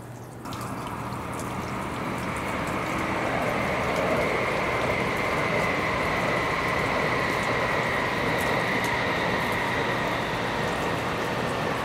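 Shinkansen bullet train running past: a steady rushing rumble of wheels on rails with a high whine. It starts suddenly about half a second in, swells over the next few seconds, then holds steady.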